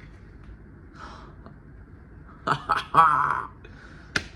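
A man gasping and grunting with effort while pulling a snug 3D-printed plastic mask over his head, with several sharp clicks and knocks of hard plastic. The loudest burst comes past the middle, and a single sharp click follows near the end.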